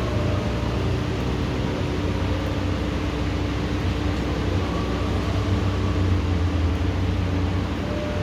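Steady heavy rain during a thunderstorm, an even hiss with a low steady hum underneath; no thunder clap stands out.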